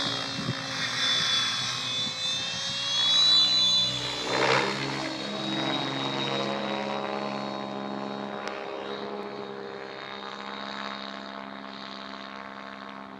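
Radio-controlled model helicopter in flight: a high motor-and-rotor whine with several steady tones that shift in pitch. It swells to its loudest with a rotor whoosh about four seconds in, then runs a little quieter.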